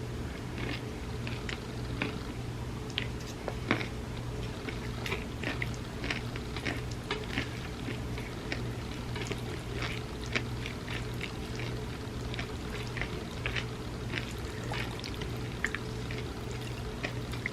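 Close-up wet squishing and small irregular clicks of chocolate cake soaked in warm almond milk being spooned and eaten, over a steady low hum.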